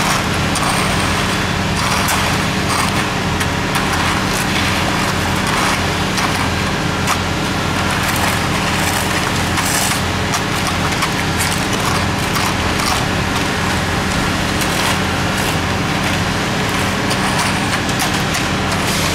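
Construction machinery engine running steadily at a concrete pour, a constant low hum with occasional knocks from the work.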